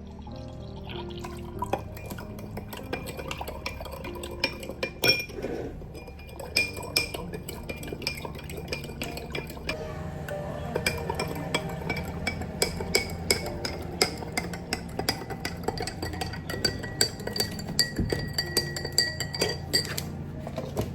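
Dishes and glassware clinking, many light clicks and taps as things are handled and stirred in a kitchen, over soft background music.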